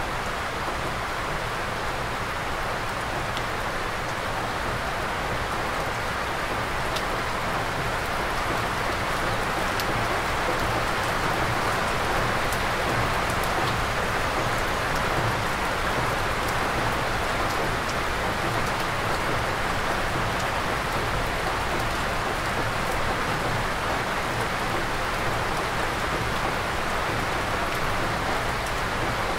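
Steady rain falling on forest foliage, an even hiss with a few sharper drop ticks.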